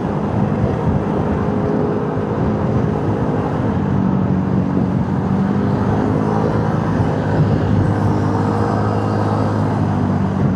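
Motorcycle engine running steadily while riding, with wind and road noise; the engine pitch shifts slightly a few times.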